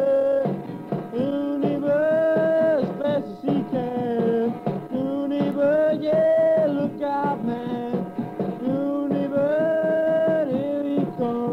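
A rock song's passage without lyrics, played on guitar and drums, with a melody of long held notes that slide between pitches.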